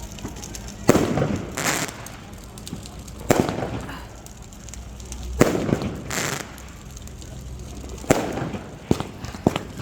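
Fireworks going off: a string of sharp bangs at irregular intervals, about one a second, several followed by a short echoing tail.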